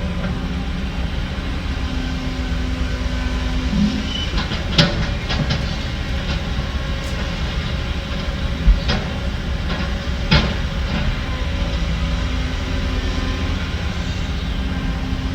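Heavy construction machinery's diesel engine running steadily, with a few sharp knocks about five, nine and ten seconds in.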